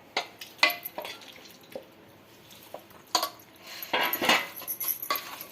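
Clinks and clatters of kitchen dishes and utensils being handled: a string of irregular sharp knocks, thickest about three to four and a half seconds in.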